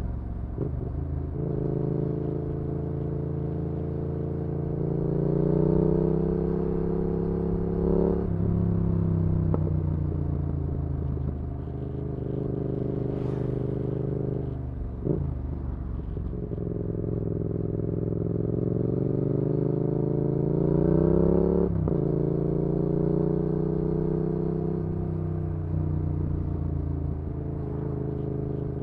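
Yamaha XSR700's parallel-twin engine running through an aftermarket IXRACE MK2 exhaust while riding, its pitch rising and falling with the throttle. Several quick gear changes break the tone, each with a sharp jump in pitch.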